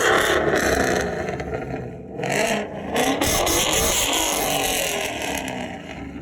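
Car engine revved hard with a loud exhaust. It drops off briefly about two seconds in, then comes back up.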